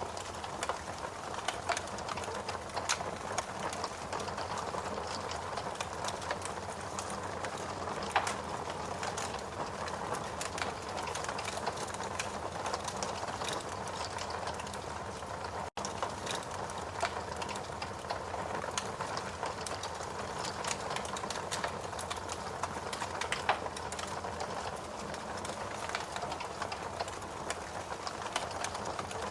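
Steady rain mixed with a wood fire crackling, with scattered sharp pops from the burning logs. The sound cuts out for an instant about halfway through.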